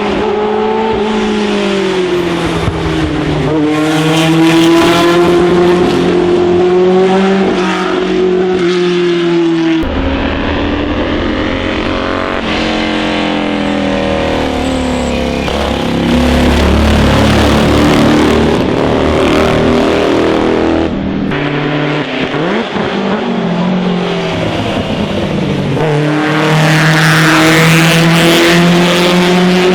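Historic racing and sports car engines at full throttle, several cars in turn: each note climbs in pitch through a gear and drops back at the shifts, and the note changes abruptly a few times as one car gives way to the next.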